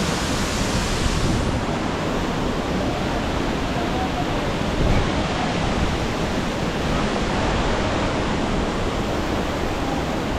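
Thompson's Falls waterfall: a steady, unbroken rush of falling water, heard close up.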